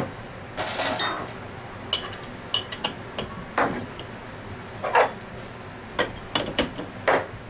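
Steel bearing-press fixtures and scroll pump parts clinking and knocking together as they are handled and fitted, in irregular taps, some with a short metallic ring.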